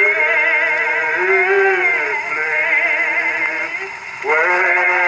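A church congregation singing a slow, drawn-out lined hymn on a 1920s 78 rpm record, with long held notes that waver and glide. There is a short break about four seconds in before the next phrase starts. The record's thin, narrow sound is typical of early recordings.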